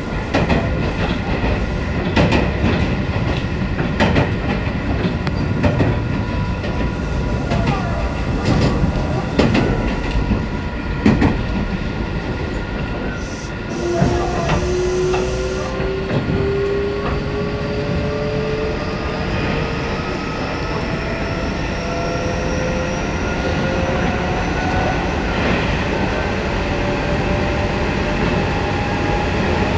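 Inside a running electric train: a steady rumble with wheels clicking over rail joints. From about halfway, a motor whine rises slowly in pitch as the train gathers speed.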